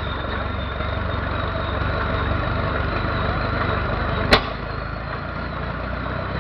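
12 hp Mietz & Weiss stationary engine running slowly, firing only now and then: a single sharp bang about four seconds in. A steady rumble runs underneath.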